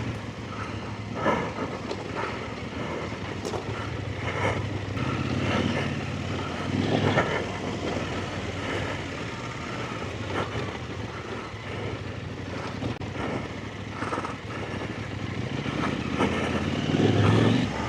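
Motorcycle engine running at low revs on a slippery trail, with the throttle opened briefly now and then, swelling about a second in, at about four and seven seconds, and again near the end.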